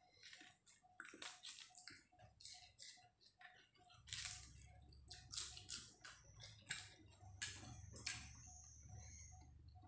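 Close-up eating sounds: chewing and mouth smacking on mouthfuls of spicy pounded salad with rice noodles, in short irregular bursts. A faint quick regular ticking runs underneath, and a low hum comes in about four seconds in.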